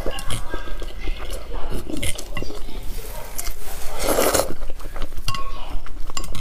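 Utensils clinking against dishes during close-miked eating, with one louder noisy burst about four seconds in.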